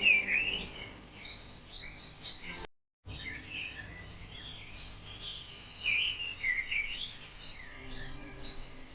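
Several birds chirping and calling in short, quick, high-pitched notes. The sound cuts out completely for a moment just under three seconds in, then the chirping resumes.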